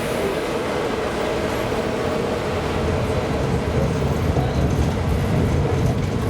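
Tram running along the track, heard from aboard: a steady rumble of wheels on rails with a steady whine.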